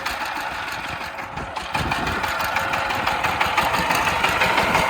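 Chinese-made 13.46 horsepower tractor engine running with a rapid, even knocking beat just after being hand-cranked into life; it gets louder about two seconds in.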